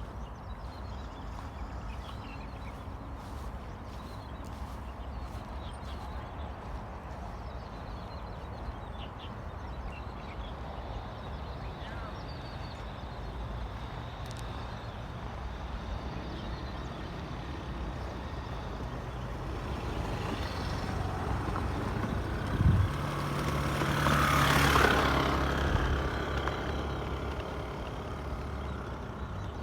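Steady low rumble of road traffic, with a heavy vehicle passing that swells to a peak near the end and fades away, and a single sharp knock just before the peak.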